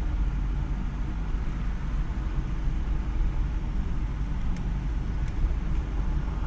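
Car driving on a graded dirt road, heard from inside the cabin: a steady low rumble of engine and tyre noise.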